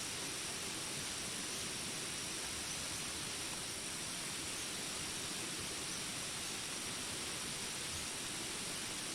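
Steady, even hiss of rain, unchanging, with a thin high steady ring above it.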